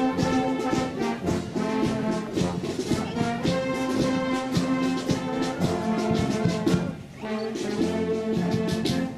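Volunteer fire brigade brass band playing sustained chords, with repeated drum beats. The music dips briefly about seven seconds in.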